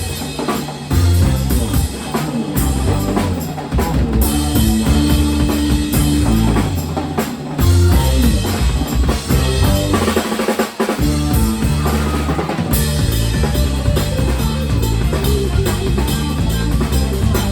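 Rock music from a band, with the drum kit to the fore: bass drum, snare and rimshots over a bass line and guitar.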